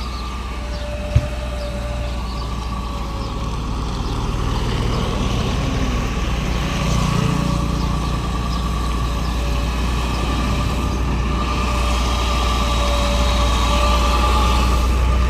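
Heavy truck's diesel engine running steadily and growing gradually louder, with a steady whine above it. A single sharp click about a second in.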